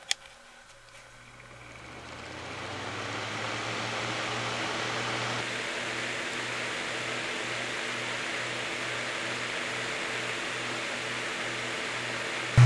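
Sunbeam Blizzard 8-inch desk fan switched on with a click, its motor and blades spinning up over a few seconds into a steady rush of air over a low motor hum.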